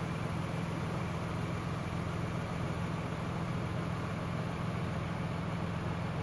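Car engine running steadily at low revs, an even low hum.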